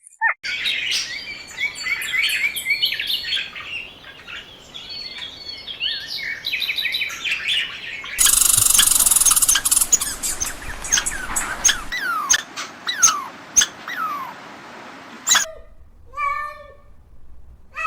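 Birds chirping: many quick overlapping chirps, then a run of short falling notes. A loud hissing noise cuts in for about two seconds near the middle.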